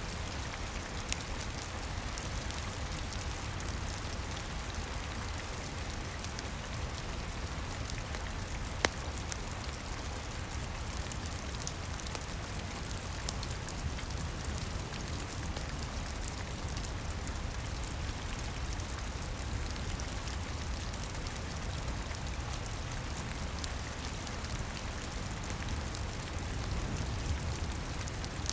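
Steady rain falling and pattering, over a low steady rumble, with a few sharp pops from a crackling wood fire, the loudest about nine seconds in.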